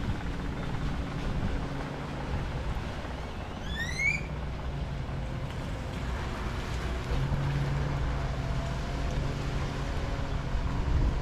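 Steady wash of wind and water at a harbor shore, with a low hum from a distant boat motor a little after halfway. One short rising whistled note sounds about four seconds in.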